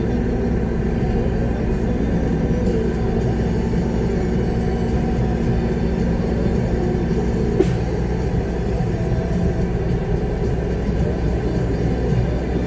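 Steady low rumble of a concrete mixer truck's diesel engine running, heard from inside the cab. A single short click about seven and a half seconds in.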